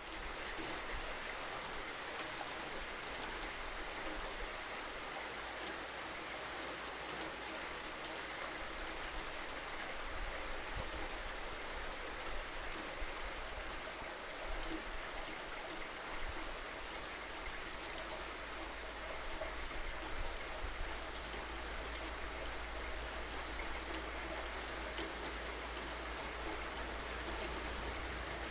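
Steady rain falling, an even hiss of drops without a break, with a low rumble underneath that grows stronger about halfway through.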